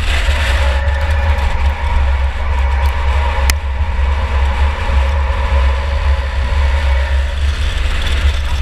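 2004 Chevy Impala derby car's engine running steadily under a constant deep rumble, with one sharp click about three and a half seconds in.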